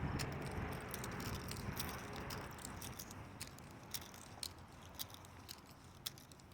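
Faint outdoor background noise that slowly fades, with scattered light sharp clicks at irregular times.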